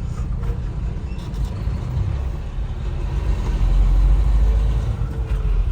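Low rumble of a semi-truck's engine and road noise heard inside the cab while driving in traffic, swelling louder for a second or so past the middle.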